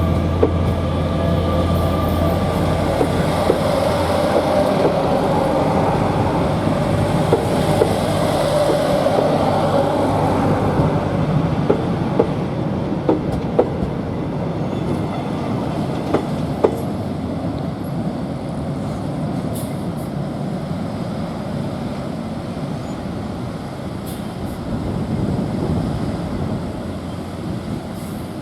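A train running past on the rails: a low engine drone that fades in the first few seconds, then the wheels' continuous rumble with scattered clicks over the rail joints. The sound slowly grows fainter toward the end.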